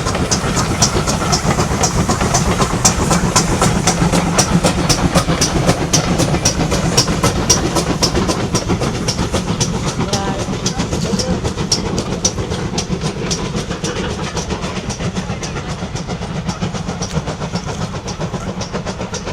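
Steam train running past on the rails, its wheels giving a steady, rapid clickety-clack that slowly fades toward the end.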